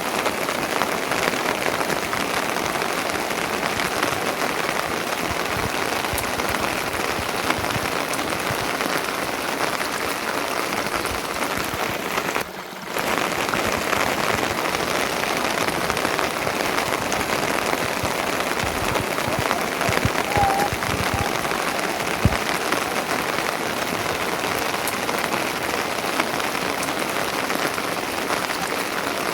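Steady rain falling, unbroken except for a brief dip about twelve seconds in.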